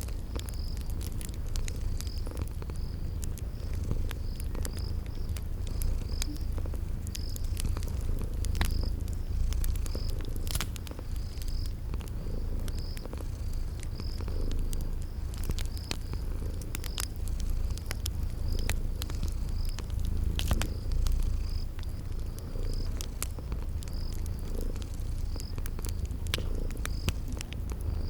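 A cat purring in a steady low rumble, layered with a cricket chirping at a regular pace. The sharp, scattered pops of a crackling wood fire come through on top.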